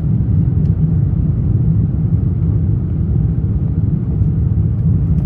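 Steady low rumble inside the economy cabin of an Airbus A350-900 in flight: airflow and the noise of its Rolls-Royce Trent XWB engines, even and unbroken.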